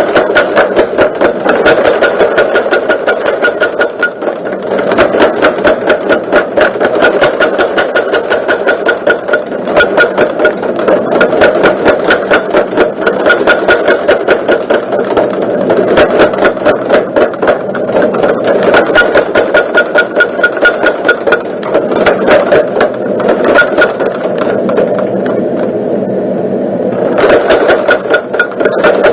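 A motor-driven machine running steadily, with a rapid, even knocking rhythm of several beats a second.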